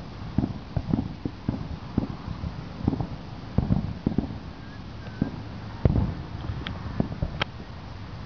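Distant fireworks display: aerial shells going off as irregular low booms, one to three a second, with a couple of sharper cracks about two-thirds of the way through.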